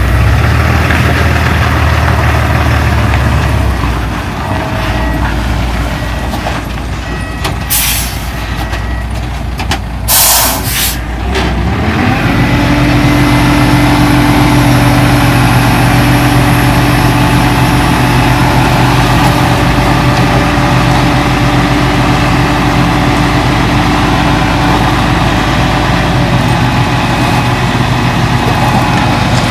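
Dump truck engine running, with two short hisses of released air from the air brakes about a third of the way in; the engine then picks up and runs steadily at higher revs.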